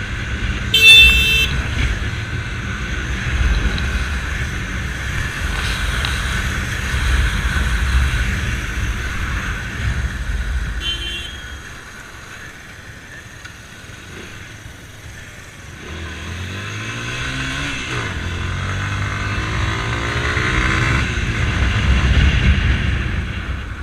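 Motor vehicle running on the road, with a short horn honk about a second in and a fainter one near eleven seconds. From about sixteen seconds an engine revs up, its pitch rising steadily for several seconds.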